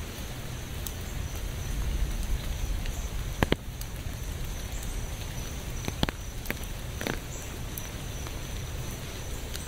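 Steady rain with a low rumble underneath and a few sharp ticks, the loudest about three and a half seconds in.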